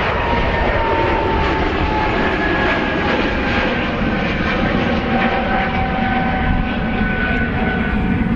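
An airliner passing close by: loud, steady engine rush with a whine that falls slowly in pitch as it goes past.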